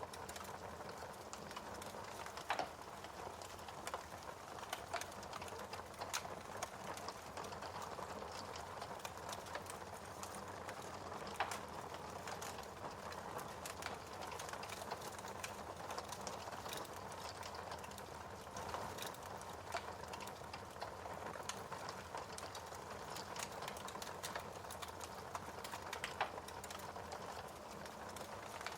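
Wood fire crackling steadily, with a soft hiss under many small pops and a few louder snaps.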